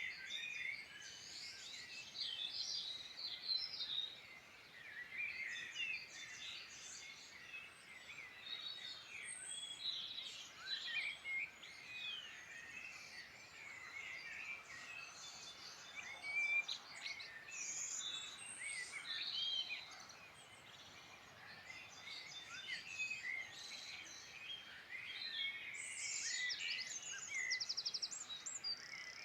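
Several songbirds singing at once, a dense overlapping chorus of quick chirps, whistles and trills, over a faint steady hiss; a fast trill stands out near the end.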